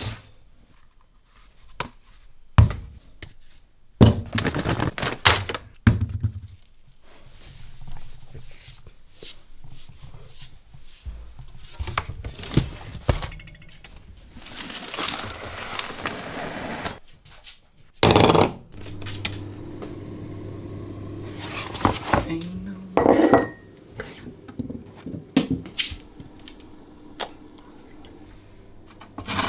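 Kitchen sounds of baking: bowls, utensils and dishes knocking, clinking and scraping in repeated short bursts. A few seconds past the middle, a steady hum runs briefly.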